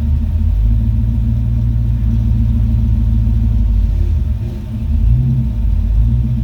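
Car engine idling, a steady low rumble that dips briefly and picks up again about five seconds in.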